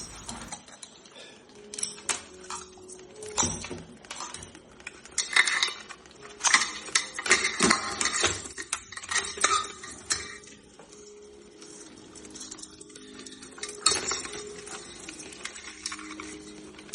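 Live river crabs scrabbling in a pot, their hard legs and claws clicking and clattering against it in irregular bursts, busiest in the first half and softer scratching later.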